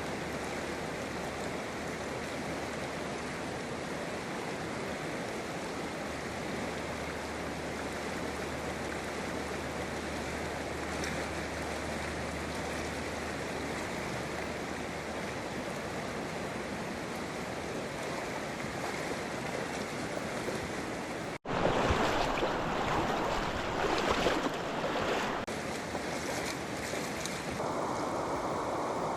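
Steady rushing of a trout stream's current into a pool. About two-thirds through, the sound cuts off abruptly and comes back as louder, more uneven water noise.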